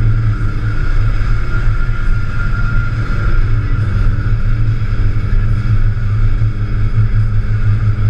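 Porsche 944's four-cylinder engine droning steadily at highway cruising speed, heard from inside the cabin with road noise.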